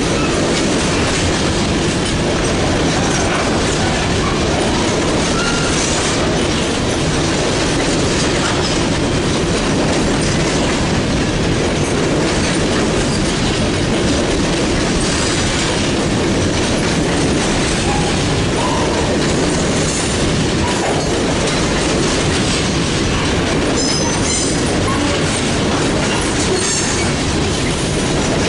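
Freight cars of a mixed freight train rolling steadily past, a loud continuous sound of wheels on rail, with a few short high-pitched wheel squeals near the end.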